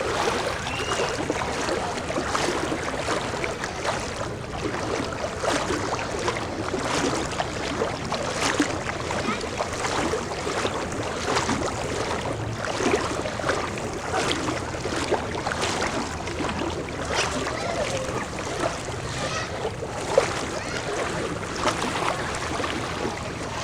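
Continuous sloshing and splashing of people wading through floodwater covering a street, with many small splashes.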